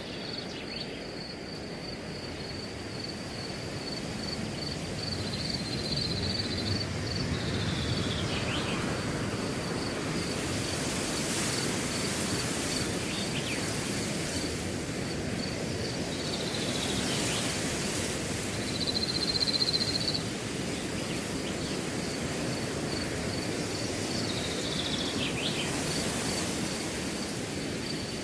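Wind blowing through grass, swelling and easing in gusts, with a cricket chirping in a high, even pulse a couple of times a second. A few brief falling calls are heard over it.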